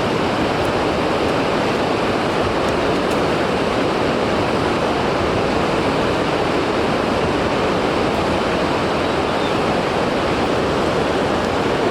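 Steady, loud rushing of flowing water, an even noise that does not change.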